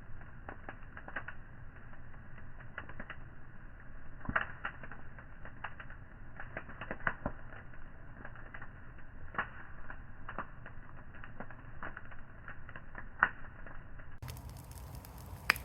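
Brush pile of yard debris and blackberry vines burning in the rain, crackling and popping in irregular sharp clicks over a low steady hiss, with one louder pop about 13 s in.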